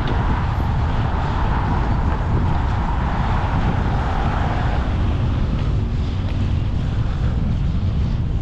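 Wind buffeting the microphone of a camera on a moving bicycle, with road traffic passing; a steady hum from a vehicle fades away about five seconds in.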